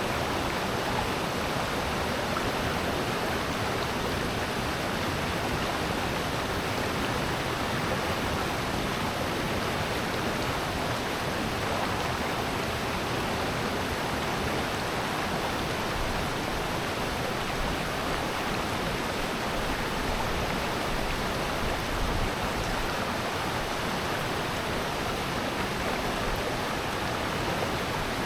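Mountain stream's water rushing steadily, an even, unbroken sound.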